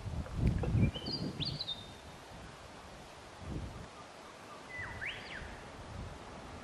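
Outdoor rural ambience with a bird calling twice. A few high whistled notes come about a second in, and a quick rising whistle about five seconds in. Underneath runs a low rumble, loudest near the start.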